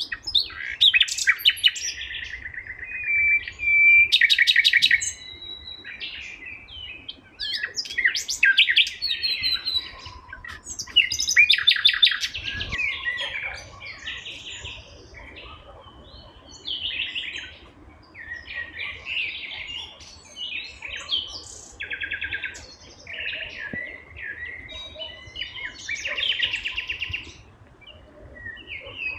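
Songbirds singing and chirping throughout, with many short calls and several fast, loud trills.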